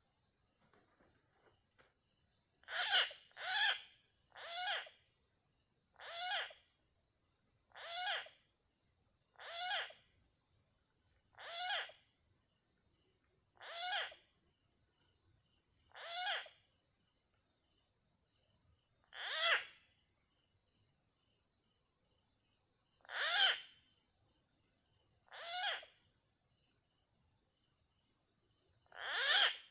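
An animal calling over and over, one short call every one to three seconds, over a steady high insect drone.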